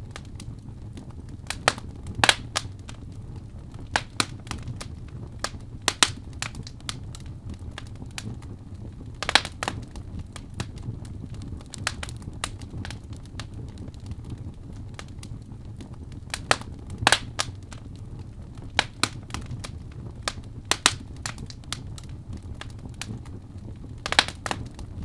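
Wood fire crackling in a fireplace: sharp, irregular pops and snaps every second or two over a steady low rumble.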